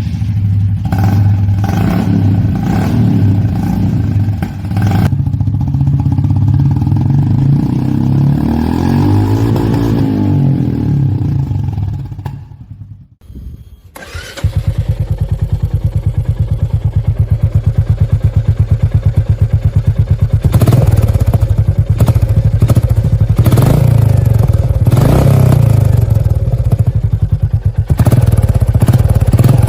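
Royal Enfield Hunter 350's single-cylinder engine through an aftermarket exhaust, running and revved up and back down. After a short break near the middle it idles with an even pulsing beat, blipped several times on the throttle.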